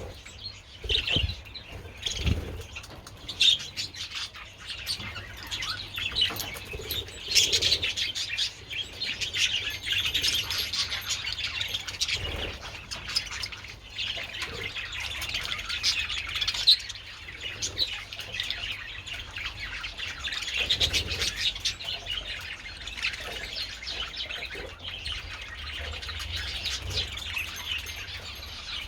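A colony of budgerigars chattering and chirping continuously, many birds at once, in a dense warbling twitter.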